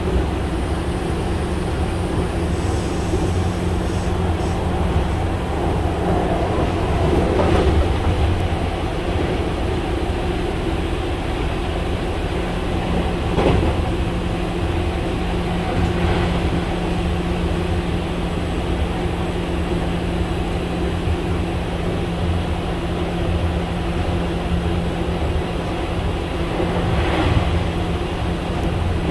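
Cabin running sound of a Meitetsu 5000 series commuter train cruising at a steady speed. The wheels on the rail rumble under a constant hum from the field-chopper-controlled traction motors, with a few short knocks from the track.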